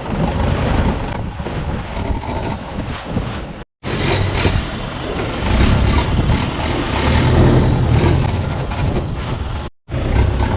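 Longtail boat engine running steadily under way, with rushing wind and water. The sound cuts out for a split second twice.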